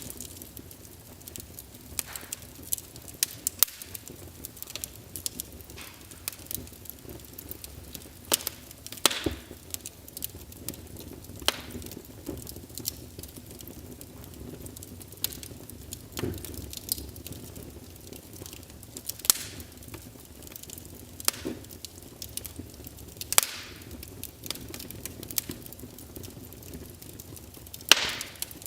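Fire burning in a fireplace, crackling with irregular sharp pops over a low steady hiss, with a few louder snaps.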